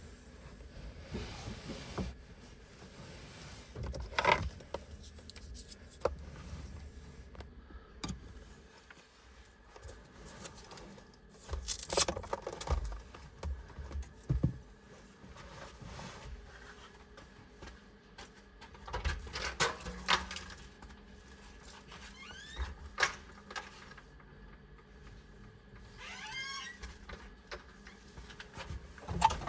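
Hands handling objects inside a car's cabin: scattered clicks, knocks and rattles with rustling in between, and a few short squeaks near the end.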